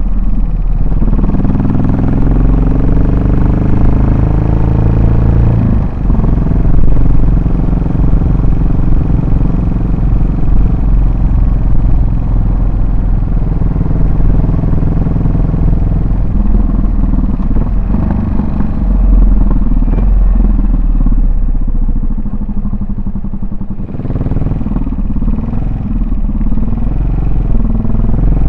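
Yamaha SR400 single-cylinder four-stroke motorcycle exhaust on the move, the engine note rising as it accelerates, briefly dipping about six seconds in, then running steadily. The note eases off near the end and then picks up again.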